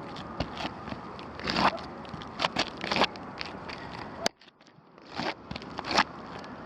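Footsteps and shoes scuffing on asphalt composition shingles: irregular gritty crunching and scraping, with a sharp click about four seconds in after which it goes much quieter.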